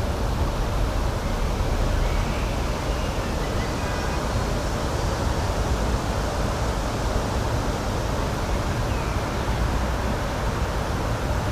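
Steady rushing outdoor ambient noise, even in level and heaviest in the low end.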